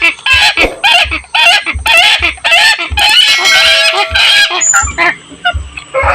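Helmeted hornbill calling: a quick run of loud, harsh, honking notes repeated about three times a second, thinning out near the end.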